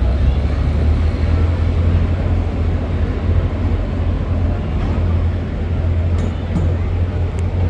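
Large engine running with a loud, steady, deep rumble. A few short clicks sound near the end.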